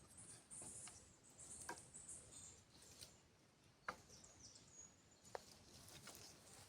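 Faint forest ambience with high bird chirps, broken by a few sharp clicks or taps.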